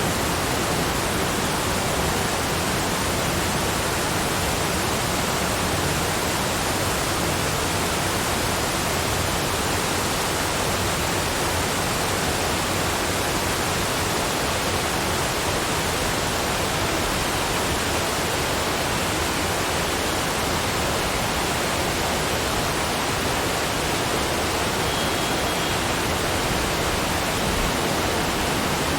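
Steady rushing water, an even full-range hiss with no breaks or changes.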